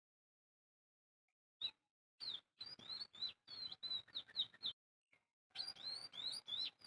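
A bird chirping in two quick runs of sharp, high notes, each note a short sweep up or down in pitch. A single note comes about a second and a half in, and there is a brief pause between the two runs.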